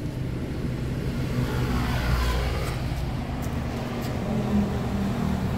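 Honda CR-V 2.4-litre four-cylinder engine idling steadily, heard at the rear of the car. About two seconds in, a sound with a falling pitch swells and fades over the steady idle.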